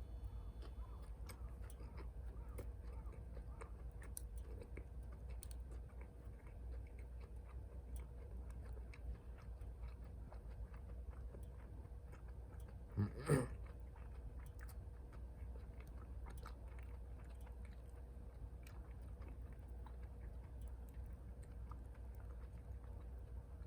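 A person chewing food close to the microphone, faint and intermittent, with small clicks scattered throughout. About 13 seconds in there is one brief, louder double sound.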